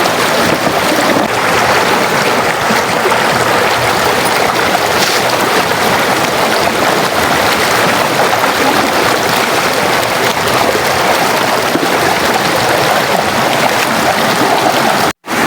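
River water rushing steadily over rocks in a shallow stretch, an even loud wash, cut by a brief moment of silence near the end.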